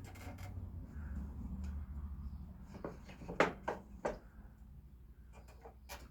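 A low hum fading out, then a handful of light clicks and knocks from wood pieces and tools being handled on the bench, starting about three seconds in.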